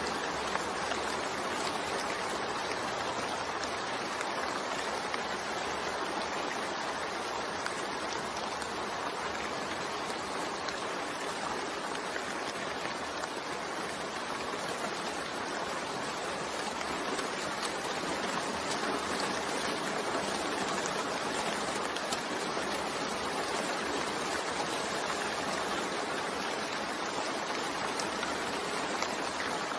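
Steady, even rainfall with a dense patter of drops.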